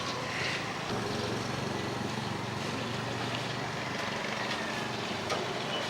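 An engine running steadily, joining about a second in, over a steady hiss.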